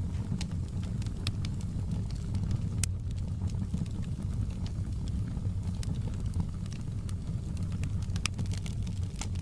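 Wood fire burning in a fireplace: a steady low rumble of the flames with sparse, sharp crackles and pops from the burning logs.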